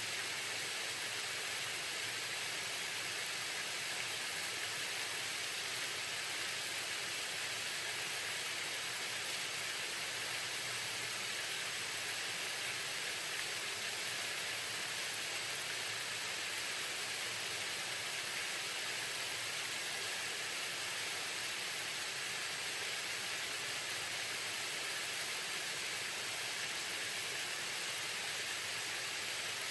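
Waterfall: water falling and splashing in a steady, even hiss with no change.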